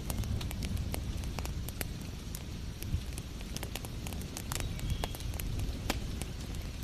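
Wood fire crackling, with many sharp irregular pops and snaps over a steady low rumble.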